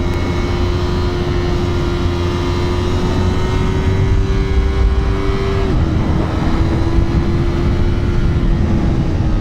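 Yamaha R3 parallel-twin engine running at a steady high pitch under way, its note stepping down slightly about six seconds in, over a heavy low wind rumble.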